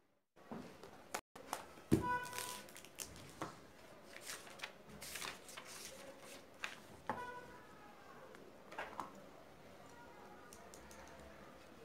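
Stationery being handled on a desk: a scattered run of light clicks, taps and rustles, with a couple of short ringing pings about two and seven seconds in.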